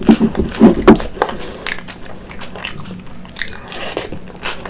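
Close-miked eating: a woman chewing a big handful of food with her mouth open, wet smacking and clicking sounds, loudest in about the first second, then softer steady chewing.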